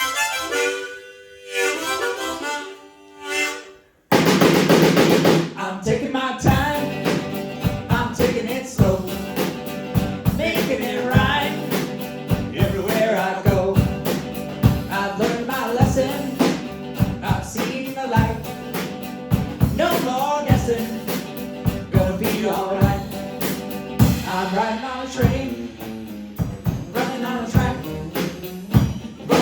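Band playing a song's instrumental intro: a lone melody line in short phrases for about four seconds, then the full band with a drum kit comes in and plays a steady beat.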